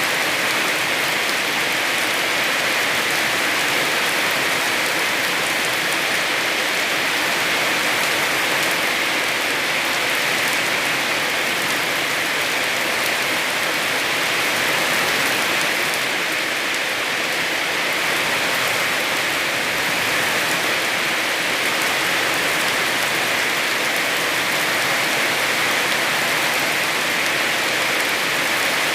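Heavy rain falling steadily, a constant even hiss with no pauses or changes in strength.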